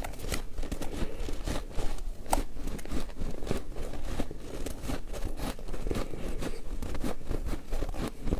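Ice being bitten and chewed close up: a steady run of irregular crisp crunches and cracks, with one sharper crack a little over two seconds in.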